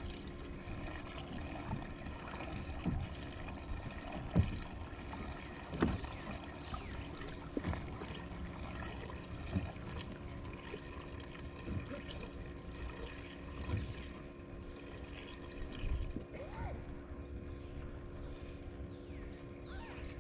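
Creek water trickling, with a steady hum underneath and scattered knocks and bumps, the sharpest about four and six seconds in.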